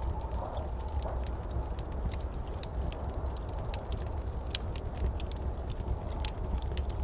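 Wood fire crackling in a fireplace: irregular sharp snaps and pops, a couple of louder ones past the middle, over a steady low rumble.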